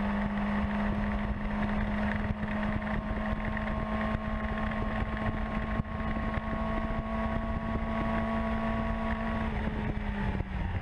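Yamaha R6 sport bike's inline-four engine running at a steady, held pitch under way, with wind rushing over the tank-mounted microphone. The engine note eases off near the end.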